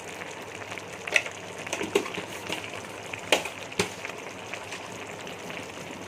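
Chicken gravy frying in a pan with a steady sizzle, and a spoon clinking against the pan about four times.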